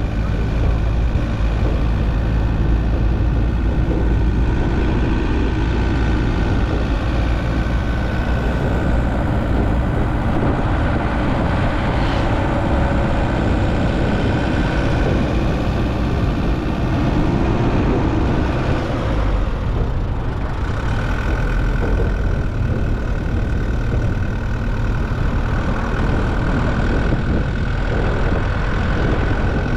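Steady engine and road rumble of a moving vehicle, heard from inside it, with a thin steady whine that becomes plainer about two-thirds of the way through.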